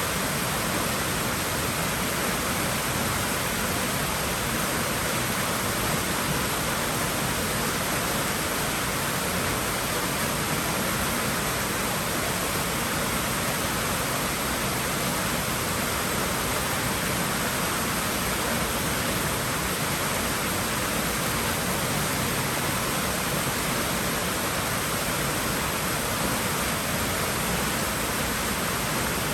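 Water rushing and splashing in a swimming pool, a steady, unchanging rush with no breaks.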